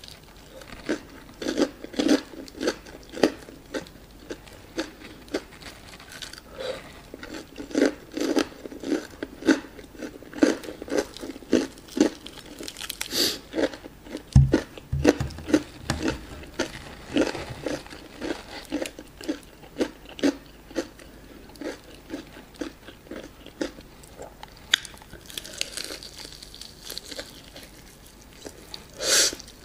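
Close-up chewing of a crispy breaded fried chicken drumstick: steady rhythmic chewing with crunches from the fried coating. There is a fresh crunchy bite near the end and a low thump about halfway through.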